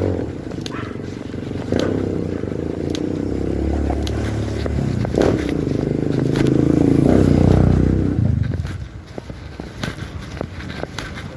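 A motorcycle engine running, growing louder and rising in pitch before fading away about eight seconds in, with scattered clicks and rattles over it.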